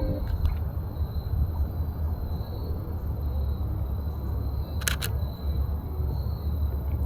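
Canon EOS RP's shutter firing once about five seconds in, a quick double click, over a steady low rumble and a faint steady high tone.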